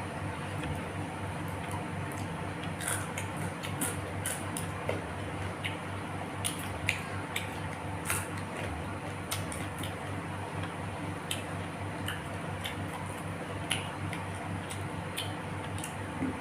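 Close-up eating sounds: wet chewing and mouth smacks, with scattered short crisp clicks, over a steady low background hum.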